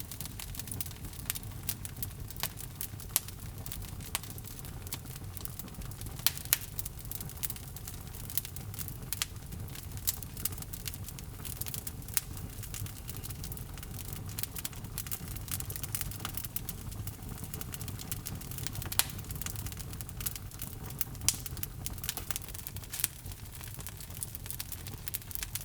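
Wood logs burning in a fireplace: a steady low rumble of flames with many irregular sharp pops and crackles.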